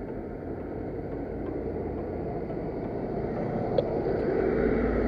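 Motorcycle being ridden, its engine and road noise running steadily and gradually growing louder.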